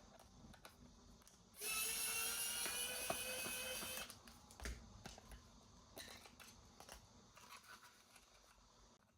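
A small electric toy motor runs for about two and a half seconds, its whine rising slightly, then cuts off. Light clicks of plastic being handled come before and after it.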